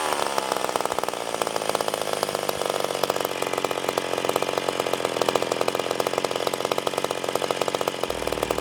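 Ported McCulloch Pro Mac 10-10 two-stroke chainsaw engine settling off throttle and then idling steadily.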